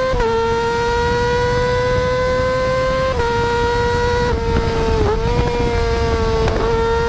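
600cc sport bike's inline-four engine running at very high revs, a high, nearly steady whine that creeps up in pitch and dips briefly several times.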